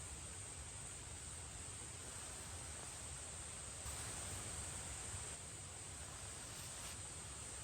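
Faint, steady high-pitched trilling of insects such as crickets, over a soft even hiss of forest ambience.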